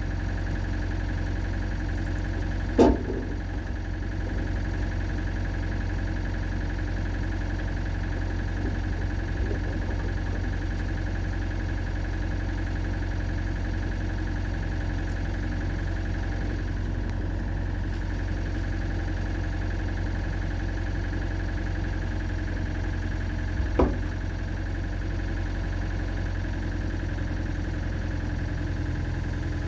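Excavator's engine idling steadily, with two sharp knocks: one about three seconds in, the other some twenty seconds later.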